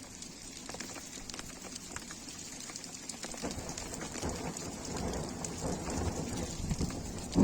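Rain falling on surfaces as many separate, sharp drop impacts, building slightly heavier over the last few seconds.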